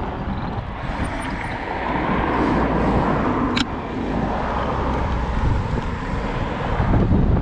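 Road traffic noise with a car passing close by, over a steady low rumble, and a single sharp click about three and a half seconds in.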